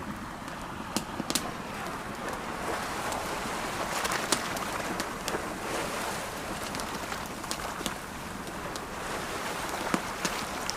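Campfire crackling, with sharp pops scattered irregularly, over the steady wash of ocean waves that swells and eases slowly.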